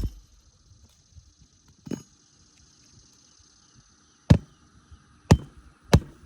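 Hammer driving nails into a new roof shingle: one softer blow about two seconds in, then three sharp blows near the end.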